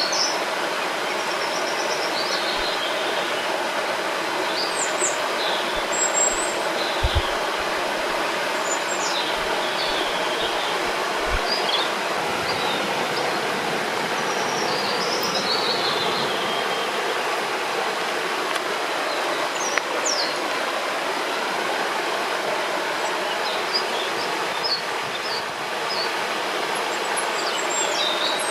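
Steady rushing of a flowing river or stream, with small birds chirping and singing in short phrases over it.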